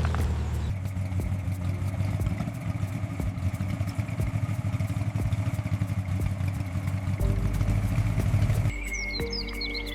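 A car engine running with a steady, pulsing low rumble that grows a little louder, then cuts off abruptly near the end, giving way to birds chirping.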